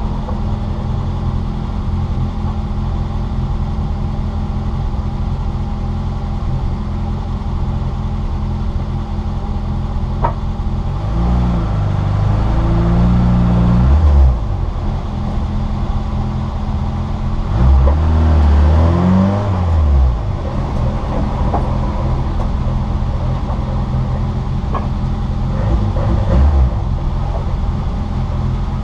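Citroën Saxo VTR's four-cylinder engine running steadily, heard from inside the car. It revs up and down twice, once around a third of the way in and again past the middle.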